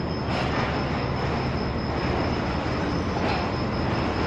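Pakistan Railways passenger train moving through the station, its running noise steady and even, with a thin high tone sounding steadily above it.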